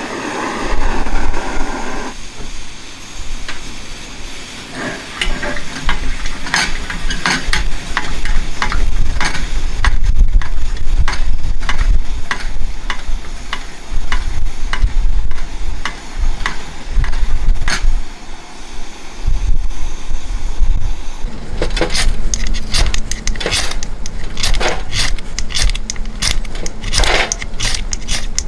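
Camp cooking: many sharp clicks and scrapes of utensils against cookware, denser in the last few seconds, over a steady low rumble.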